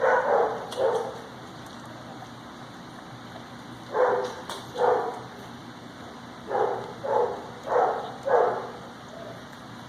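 Puppy barking in short, high yaps: two at the start, then after a pause of about three seconds a run of about six more.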